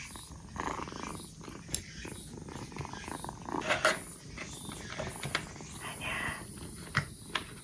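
Two-month-old black kitten purring steadily, with a few short clicks over it.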